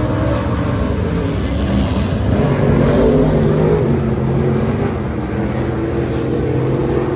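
Several stock car engines racing on a dirt oval, their overlapping engine notes rising and falling as the cars go around the track.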